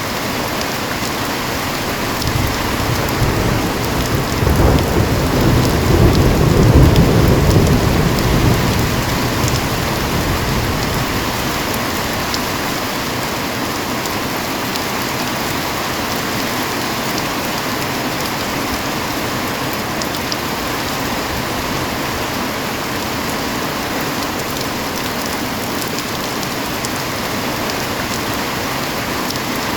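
Heavy rain falling steadily, with a low rumble of thunder that builds about two seconds in, peaks a few seconds later and dies away by about twelve seconds.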